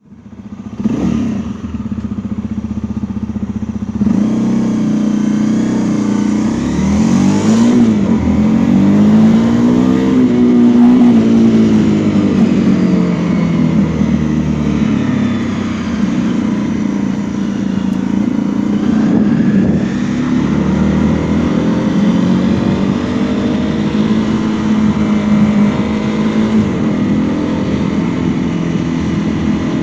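Honda CRF250L's single-cylinder 250 cc engine running under way, its revs rising and falling several times as it accelerates and eases off. A brief rev about a second in, then it runs louder from about four seconds.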